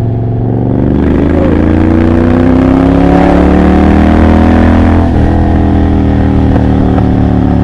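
Triumph Bobber's 1200 cc parallel-twin engine through a Motone Mayhem X-pipe exhaust with pretty much no silencers, pulling hard from low revs with the note rising steadily for about four seconds. About five seconds in the pitch drops sharply, and the engine then runs on at a steady lower note.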